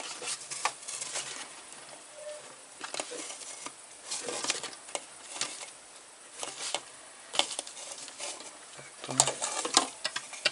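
Irregular clicks, knocks and rustling of plastic parts as a small fuel-transfer pump is handled, fitted together and tried out.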